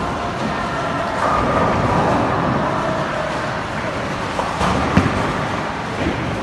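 Bowling alley din: a steady rumble of bowling balls rolling on the lanes, with a brief sharp knock about five seconds in and faint voices in the background.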